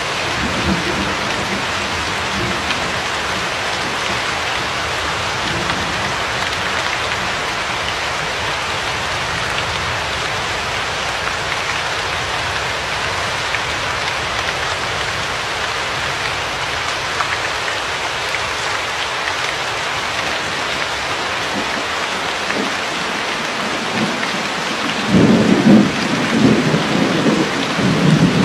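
Steady, even rain hiss from a heavy downpour. Near the end a low rumble of thunder rolls in and swells in several surges.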